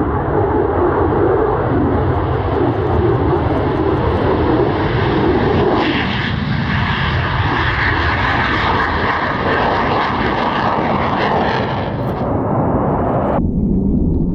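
Loud, steady jet roar of an F/A-18 Hornet fighter flying its display. A brighter hiss comes in about six seconds in, and the sound changes abruptly near the end.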